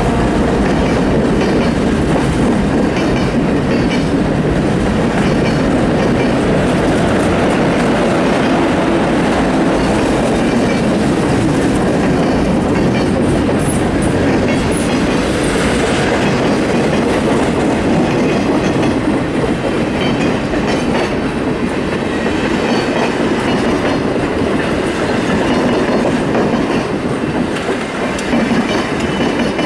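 A Canadian Pacific train's boxcars and trailing passenger coaches rolling past, steel wheels running over the rails in a loud, steady rumble with rhythmic clacking. The sound eases slightly in the last third as the coaches pass.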